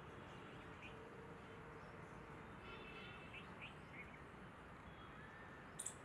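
Faint background hiss with a few short, faint bird chirps scattered through it, and one sharp click just before the end.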